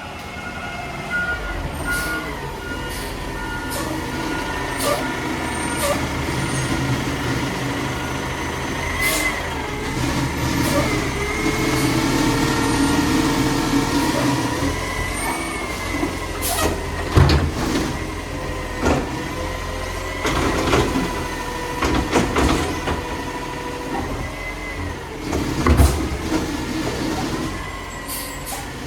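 Mack LR garbage truck with a Labrie Automizer body working its hydraulics while the engine runs: a wavering hydraulic whine over the engine, broken by repeated clanks and bangs of metal and recycling, as the load is tipped and packed.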